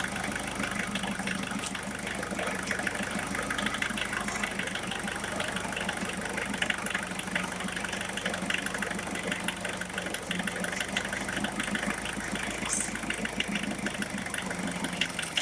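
Diesel engine idling steadily with a fast, even clatter.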